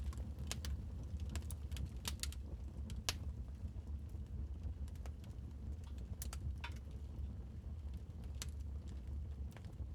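Wood fire crackling in a fireplace: irregular sharp pops and snaps, a loud one about three seconds in, over a low steady rumble of the fire.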